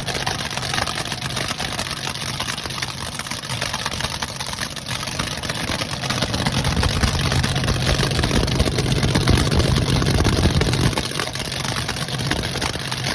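Freshly rebuilt car engine running on its first start-up after its head gaskets were redone. It idles steadily, its low rumble swelling louder for a few seconds in the middle before settling back.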